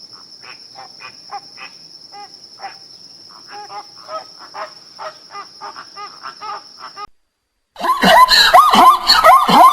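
Many short animal calls over a steady high insect-like drone. The sound cuts off, and after a short gap much louder, high, wavering animal cries begin.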